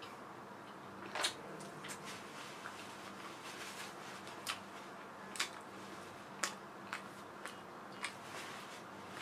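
Close-up chewing of a mouthful of fish fillet sandwich: wet mouth smacks and clicks at irregular intervals, about one a second, the loudest about a second in, over a faint steady low hum.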